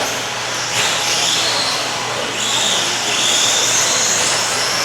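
Several 1/10-scale RC stadium trucks racing, their 13.5-turn brushless electric motors and drivetrains giving a high whine that rises and falls in pitch with the throttle, over a steady rush of noise.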